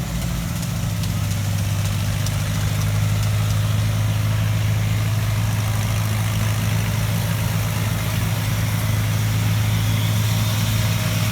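An engine idling steadily close by, an even low hum that holds its pitch throughout.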